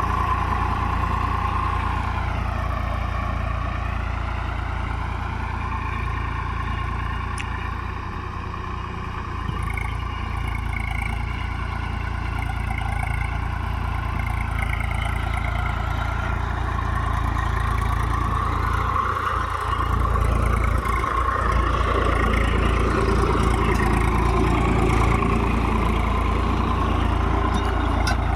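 Tractor engine running steadily, its pitch sinking a few seconds in and rising again past the middle as the engine speed changes, over a steady low rumble.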